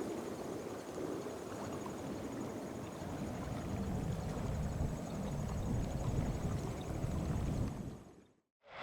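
Outdoor wind-and-water ambience with a low rumble that builds over the middle, fading out to silence about eight seconds in.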